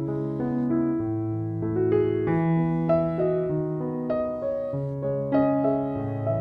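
Background piano music: a slow melody of single notes over held bass notes, changing about every half second to a second.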